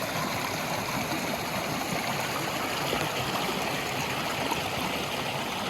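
Stream water flowing over rocks, a steady rushing and gurgling.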